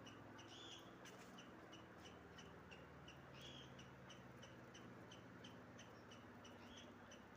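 Faint bird calls: a quick run of short high chirps, about three a second, with a fuller call every few seconds.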